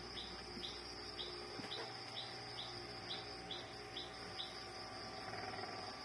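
Background chirping: a run of short high chirps, about two a second, that stops a little after four seconds, over a steady high-pitched insect trill.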